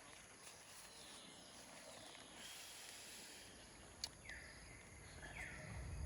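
Faint outdoor ambience with a few high, falling animal calls, and a single sharp click about four seconds in.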